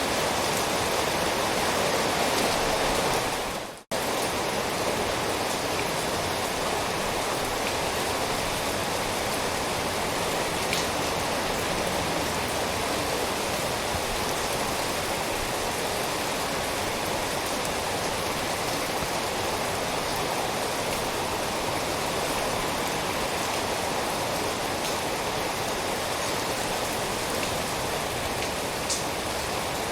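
Steady rain falling. It fades almost to nothing just before four seconds in, then cuts straight back in and runs on evenly.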